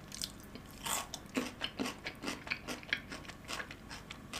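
Someone biting into and chewing a crispy fried cheese ball: a crunch about a second in, then irregular crisp crackles as the fried shell is chewed.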